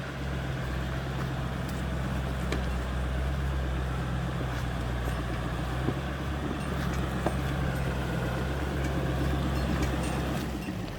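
Excavator engine running steadily under load, with a few light clicks and knocks.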